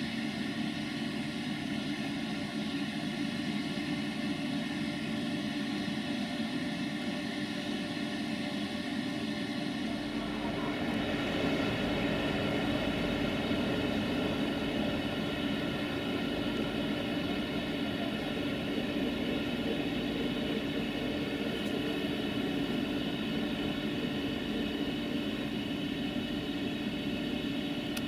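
A train's steady mechanical drone with a constant hum and many even tones, joined by a deeper rumble about ten seconds in.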